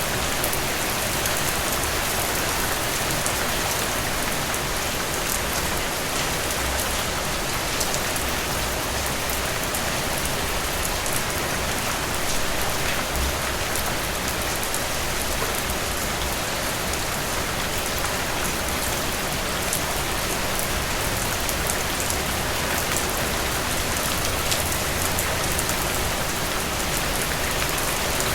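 Steady rain falling through trees, an even hiss with scattered drop ticks.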